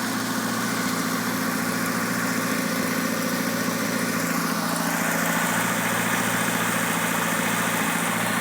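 1987 Pontiac Fiero's 2.5-litre four-cylinder engine idling steadily.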